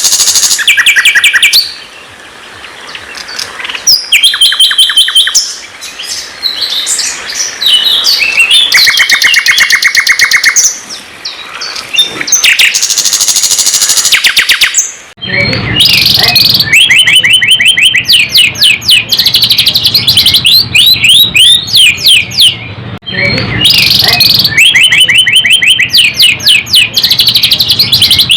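Songbirds singing loudly: fast runs of repeated whistled notes and rattling trills, broken by short pauses. About halfway through, the sound changes abruptly and a low hum joins under the song.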